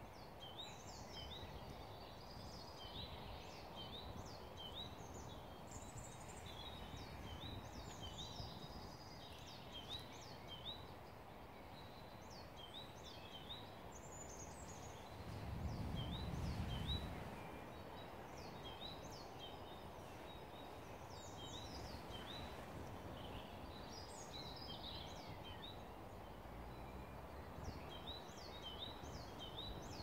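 Several small birds singing: many short, quick chirps and trills, scattered throughout over a steady low background rumble. A louder low rumble swells for about two seconds midway.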